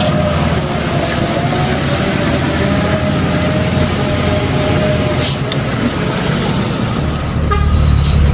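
Heavy truck engine running, with a thin steady whine over a low rumble; the rumble gets louder about seven seconds in.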